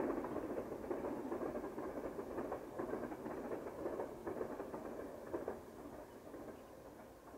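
Distant passenger train running along the line, a steady rumble with a few sharp clacks, fading away steadily as it moves off.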